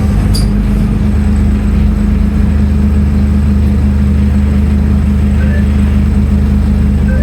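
Scania N310UA bus diesel engine running steadily at an even pitch, with a light click about half a second in.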